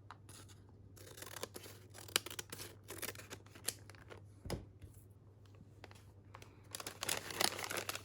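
Small craft packet being handled and opened by hand: irregular crinkling and light clicks of packaging, busiest near the end, with one soft thump about halfway. A faint steady low hum runs underneath.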